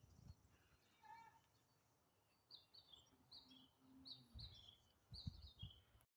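Faint bird chirping: a quick run of short, falling chirps from about two seconds in. A few low wind rumbles hit the microphone near the end.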